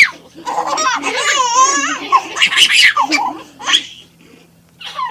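A baby laughing and squealing in short high-pitched bursts, with a wavering squeal about a second and a half in, a brief lull near the end, then more giggles.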